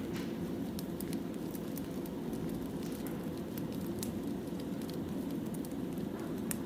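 Burning firewood in a campfire: a steady low hiss of the fire with scattered sharp crackles and pops.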